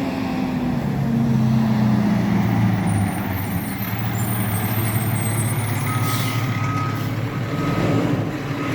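Garbage truck engine running, its pitch dropping over the first few seconds as it slows, then holding steady. About six seconds in there is a short hiss of air, and a thin high beeping tone sounds for the last few seconds.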